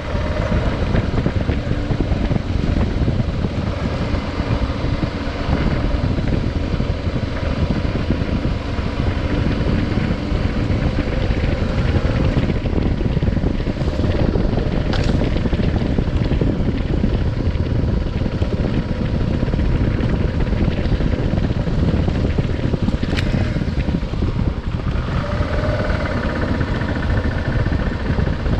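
Adventure motorcycle running steadily under way, its engine rumble mixed with heavy wind noise buffeting the microphone.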